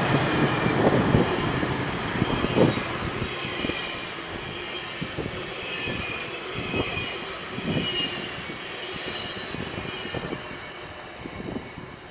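GO Transit commuter train passing on the rails, its wheels knocking irregularly over rail joints, with a faint high whine, fading away as it goes.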